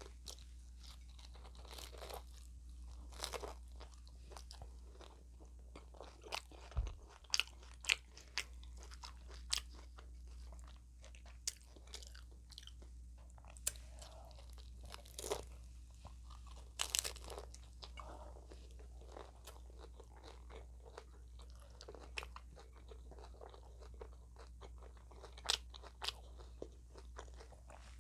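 Close-miked chewing and biting into crunchy flavoured taco shells, with irregular sharp crunches scattered throughout over a steady low hum.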